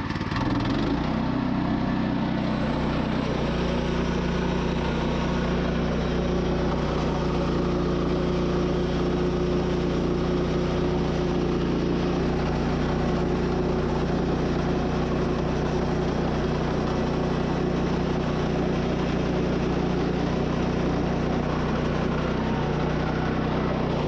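Woodland Mills HM122 portable bandsaw mill's gas engine running steadily under load as the band blade cuts an inch-thick board through a wet black oak log. The engine note shifts in the first few seconds, then holds steady.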